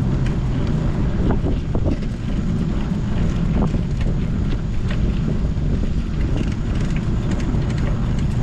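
Wind buffeting the microphone of a camera on a moving bicycle ride: a steady low rumbling noise, with a few faint clicks and rattles.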